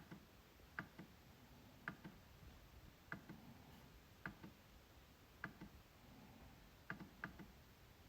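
MacBook trackpad being clicked about once a second, about eight clicks in all, two of them close together near the end. Each is a sharp click followed by a fainter one, the press and the release.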